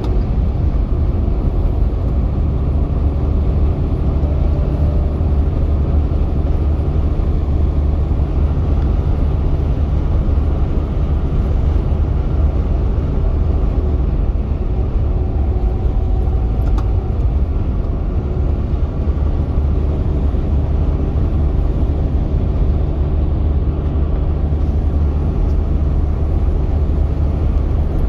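Semi-truck driving on the road: a steady low engine and road rumble that holds even throughout.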